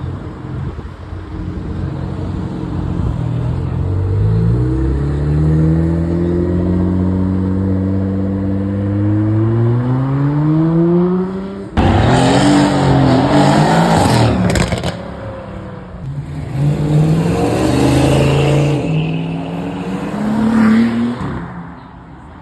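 Car engines accelerating away: one engine's pitch climbs slowly over several seconds. About twelve seconds in, a much louder, rougher burst of hard revving cuts in suddenly and lasts about three seconds, followed by another car revving up near the end.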